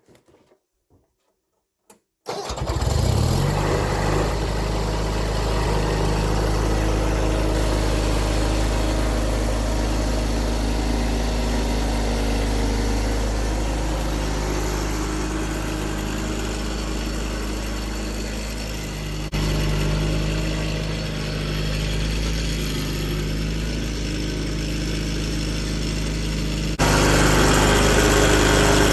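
A small engine starts about two seconds in and then runs steadily at idle. Its level jumps suddenly twice near the end.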